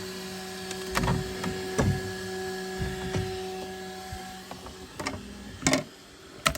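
Bambu X1 Carbon 3D printer running with a steady whine of several tones that stops about four and a half seconds in. Several sharp knocks and clicks come through it, the loudest near the end.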